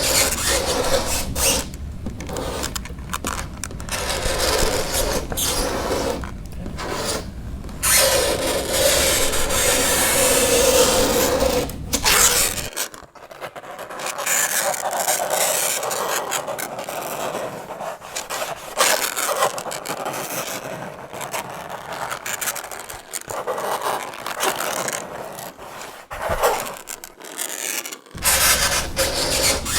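Fingernails scraping across a chalkboard in repeated strokes with short breaks, with a held whining tone for a few seconds about a third of the way in.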